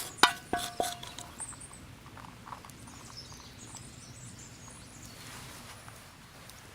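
A few sharp knocks, each with a short ringing tone, in the first second, then a quiet outdoor background with faint high chirps.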